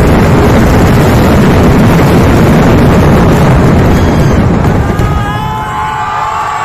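A massive fireworks barrage, the explosions so close together that they merge into one continuous roar. It dies down about five seconds in, and crowd voices shouting and cheering come through.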